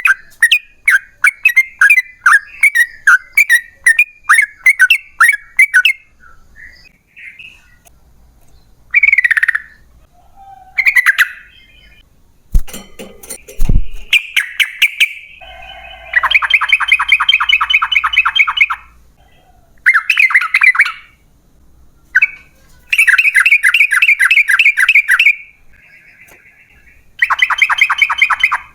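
Yellow-vented bulbul (trucukan) singing its long rapid-fire 'ropel' song: loud runs of quickly repeated bubbly notes, broken by a few seconds of scattered single calls midway. Two brief low thumps near the middle.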